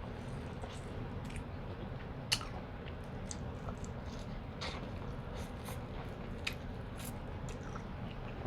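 Close-up chewing and mouth clicks while eating corn on the cob, with scattered short clicks and one sharper click a little over two seconds in.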